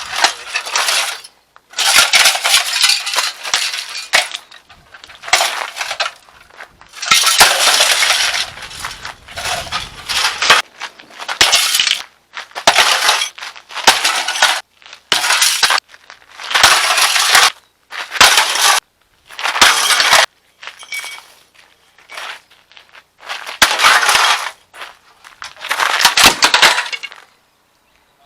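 Water heater being smashed: repeated crashing and breaking bursts with clinking debris, coming every second or two, with one longer run about seven seconds in.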